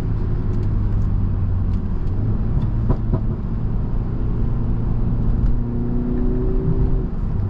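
Tuned BMW 330i's turbocharged four-cylinder engine running while the car drives along, a steady hum with a few faint clicks. Its pitch climbs gently for a second or two near the end.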